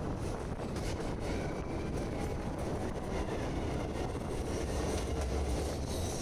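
Passenger train running along the track: a steady rumble of the carriage in motion.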